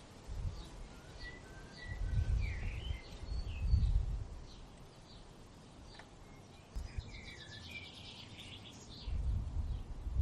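Several songbirds chirping, with short whistled notes and a rapid trill a little past the middle. Gusts of wind rumble on the microphone a few times, louder than the birds.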